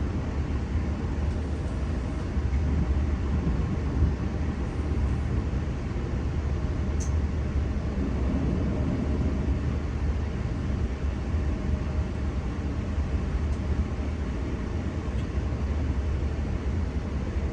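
Steady low rumble of a train running, with a brief sharp click about seven seconds in.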